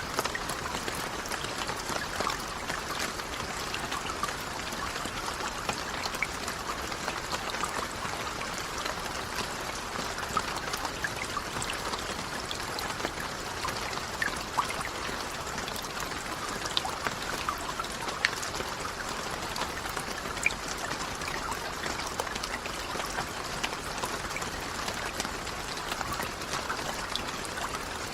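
Steady rainfall, an even wash of falling water with scattered individual drops ticking louder here and there.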